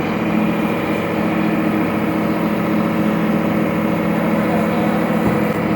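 Diesel engine of a BharatBenz 12-wheel truck running steadily at a constant speed.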